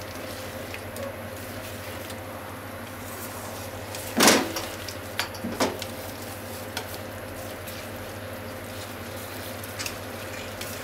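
Cubes of thick fried tofu, okra and green onion sizzling in a frying pan as they are turned with chopsticks. About four seconds in there is one loud clack against the pan, followed by a few lighter knocks.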